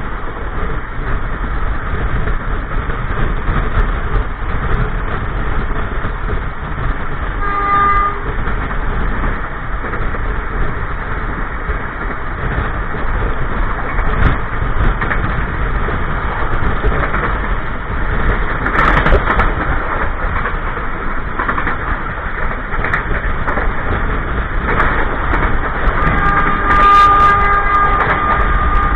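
Passenger train running at speed, a steady rumble and rush of wheels on rail heard from inside the carriage toilet. The locomotive horn sounds briefly about eight seconds in and again, longer, near the end.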